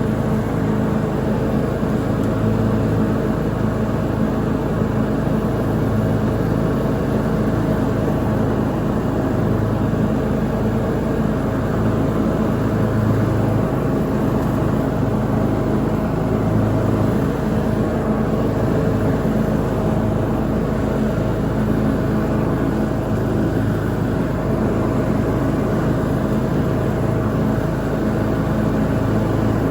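Lawn mower engine running steadily while mowing, with an even, unbroken engine note.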